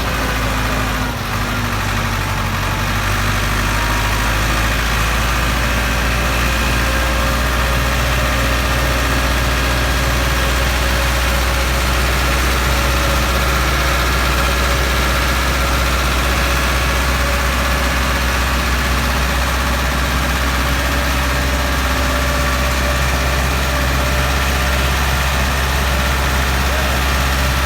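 Ford 6610 tractor's four-cylinder diesel engine running steadily with a deep, even drone, hauling a loaded trolley.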